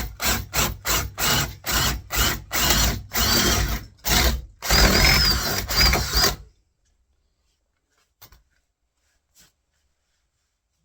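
Power drill boring a 20 mm hole into the edge of a hollow door for the latch, run in short trigger pulses about three a second, then in two longer bursts before it stops.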